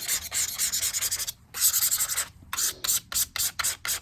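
Rubbing and scraping at the sticker residue on a MacBook's casing. It starts as a continuous stretch, pauses briefly, then breaks into quick back-and-forth strokes about four a second near the end.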